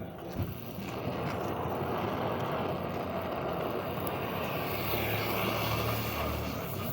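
A vehicle engine running steadily. It gets louder about a second in, and a deeper rumble comes in near the end.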